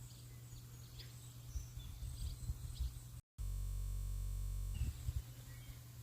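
Outdoor ambience: faint bird chirps over a low rumble. Just past the middle the sound cuts out for an instant, then a steady buzz holds for about a second and a half before the ambience comes back.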